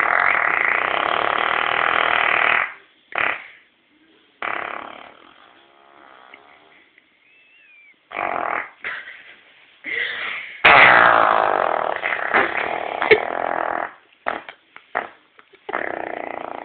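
A series of fart noises, long and short blasts with gaps between. The first runs nearly three seconds, a few short ones follow, then a quieter stretch. The loudest and longest, about three seconds, comes about two thirds of the way in, followed by several short ones.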